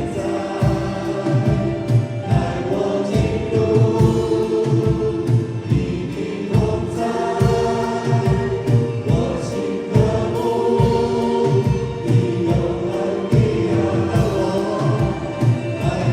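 Worship music: a band with keyboard playing while voices sing a slow worship song together.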